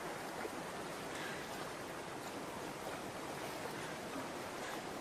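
Shallow stream or estuary water running steadily, an even rush of moving water.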